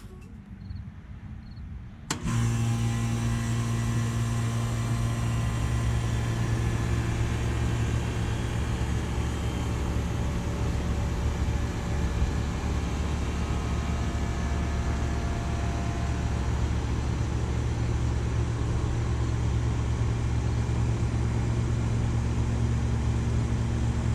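1990 Rheem Classic IX 4-ton air conditioner starting up about two seconds in: its Copeland reciprocating compressor comes on suddenly with a strong low hum, then runs steadily.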